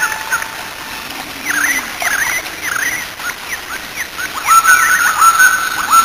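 Songbirds calling: a run of quick chirping notes, then from about four and a half seconds a louder, held whistled note broken by short downward slurs.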